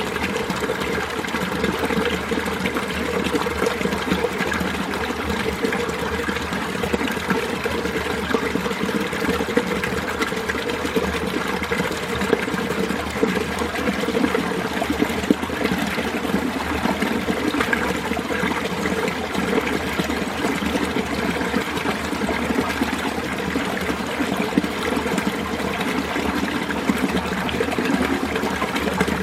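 Winter mountain stream flowing and trickling over rocks beneath ice: a steady, even rush of running water.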